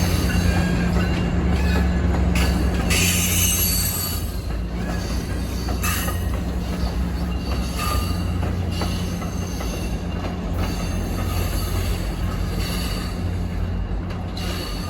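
Train rolling by with a steady low rumble and high-pitched wheel squeal from the rails that comes and goes, loudest about three seconds in.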